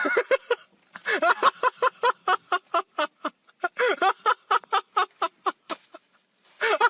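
A cat giving a rapid run of short, high meows, about four a second, that stops shortly before the end, with a brief burst of calls near the end.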